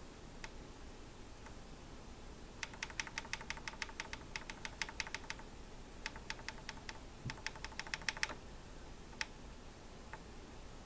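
Keys being tapped on a keyboard: quick runs of light clicks, about ten a second, in three bursts, with a few single key presses between.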